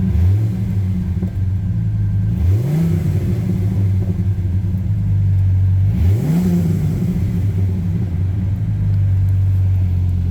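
2005 Dodge Ram SRT10's 8.3-litre Viper V10 idling through an aftermarket MagnaFlow exhaust, just after a cold start. The throttle is blipped twice, about two and a half and six seconds in, the revs rising and falling back to a steady idle each time.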